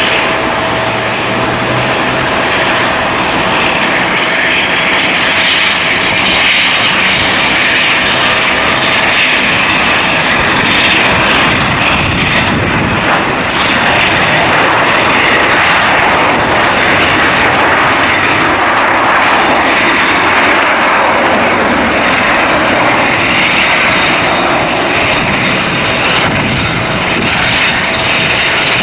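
Delta Embraer 175 regional jet's twin turbofan engines running steadily, a continuous jet noise with a thin whine that fades out about halfway through.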